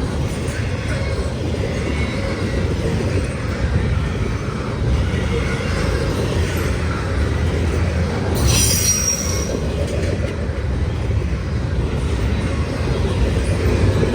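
Freight cars rolling past on the rails in a steady low rumble, with a brief high-pitched wheel squeal about eight seconds in.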